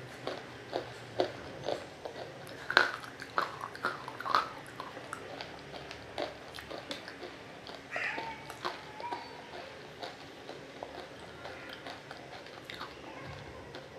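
Chewing of water-soaked roasted nakumatt pieces: wet crunching with many sharp, irregular crackles, the loudest crunch about three seconds in.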